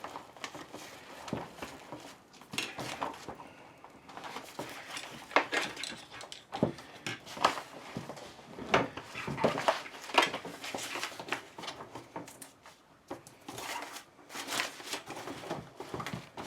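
Irregular clicks, knocks and rattles of hard plastic and metal parts being handled: a telescopic suitcase handle being pulled and worked at with its screws removed.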